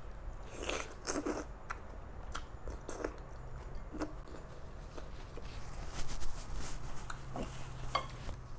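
A person biting and chewing a mouthful of food: irregular wet smacks and crunches, busiest about a second in and louder again around six seconds in.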